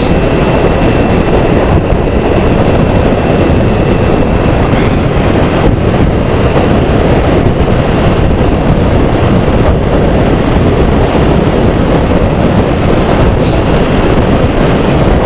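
Kawasaki Z400 parallel-twin engine running steadily at cruising speed through a Toro aftermarket exhaust tip, heavily mixed with wind rush on the microphone. The sound is even throughout, with no revving or gear changes.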